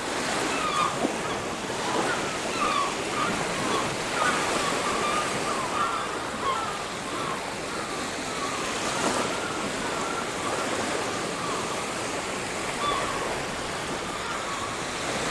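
Ocean waves washing steadily onto a beach, with many short bird calls chattering over the surf.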